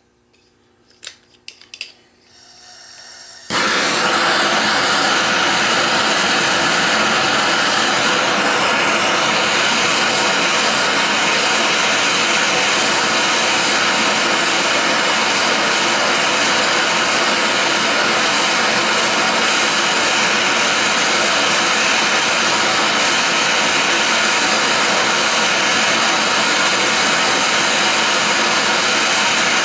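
A handheld gas torch burning with a steady hiss, lit about three and a half seconds in after a couple of clicks, heating a seized fitting on an old engine to loosen it.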